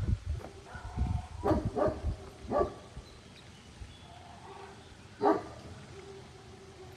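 Geese honking: a quick run of short, harsh honks in the first three seconds, then one louder honk about five seconds in.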